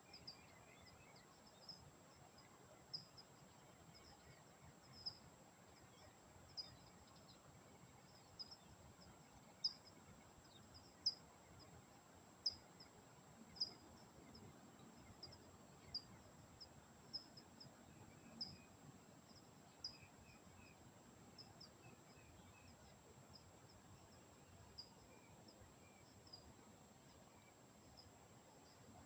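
Bird chirping: short high chirps repeating irregularly, about one or two a second, over a faint steady background hiss.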